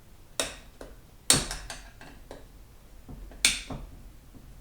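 Metal-on-metal clanks and clinks of a steel screwdriver working at parts inside a 4L60E automatic transmission during teardown: three sharp knocks, about a second apart at first and then after a longer gap, with lighter ticks and rattles between.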